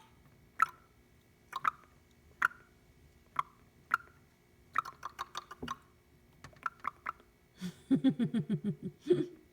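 Indian ringneck parrot making a string of short clicks and beeps, about one a second at first, then in quicker clusters, ending in a fast, lower-pitched chattering run near the end.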